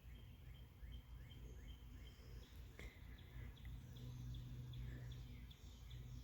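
Faint outdoor ambience: a small bird chirping in short high notes, about two a second at first and then more irregularly, over a steady low hum.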